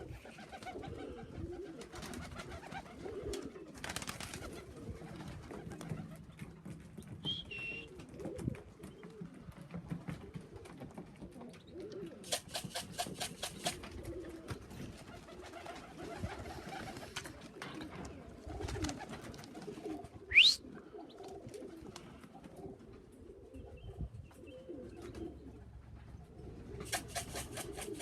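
Pigeons cooing steadily at the loft. A short, sharp rising whistle about twenty seconds in and two brief rattling bursts, one near the middle and one near the end.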